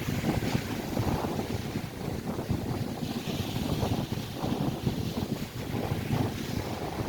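Gusty wind buffeting the microphone over waves breaking on the Lake Erie shore, with a hiss of surf swelling about three seconds in.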